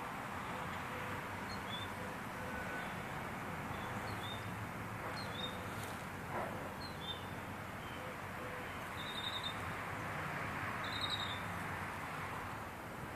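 Outdoor ambience: a steady background hiss with small birds chirping now and then in short high notes, including two quick trills about nine and eleven seconds in.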